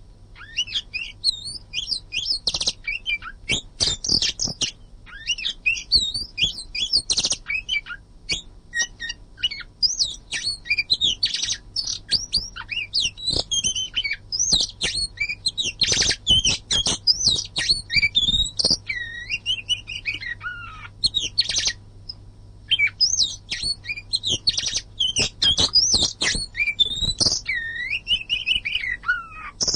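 Oriental magpie-robin (kacer) in full song: a dense, fast run of varied whistles and chirps with only brief pauses, including a few long falling whistles.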